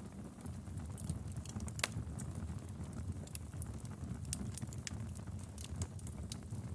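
Fire in a fireplace crackling, with frequent sharp pops and snaps over a steady low rumble of the flames; one louder pop comes about two seconds in.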